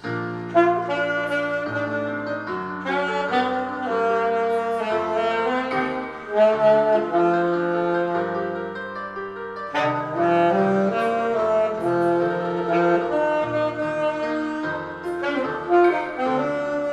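Yamaha YAS-280 alto saxophone playing a slow ballad melody, note by note, over a karaoke backing track.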